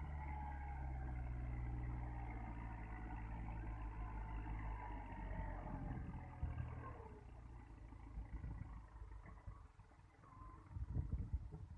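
Kubota 45 hp tractor's diesel engine running steadily while hauling a fully loaded sugarcane trolley. About seven seconds in, the engine note drops and fades, and irregular knocks and rattles follow.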